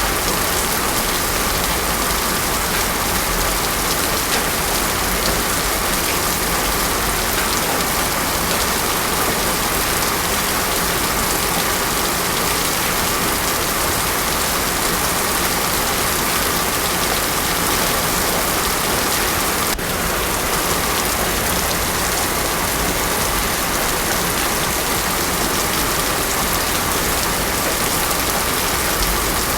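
Heavy rain pouring steadily onto a road, a dense, even hiss with no thunder.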